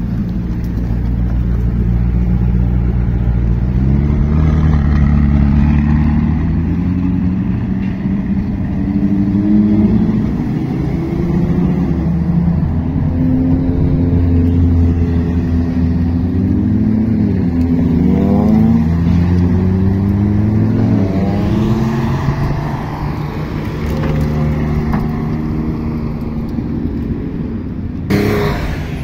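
Sports car engines passing one after another at low speed, revving in short blips so the pitch rises and falls repeatedly.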